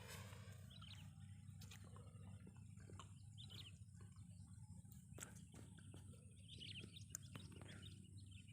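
Faint birds chirping in short, scattered calls over a low steady background hum, with a few small clicks.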